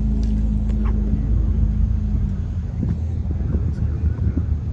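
A car engine running close by with a steady low rumble. A little past two seconds in, its note becomes rougher and more uneven.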